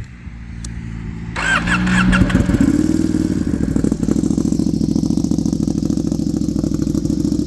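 Ducati Panigale V2's L-twin engine, already warm, is cranked on its starter about a second and a half in, catches with a brief flare of revs, then settles into a steady idle rumble through a Vandemon full titanium exhaust.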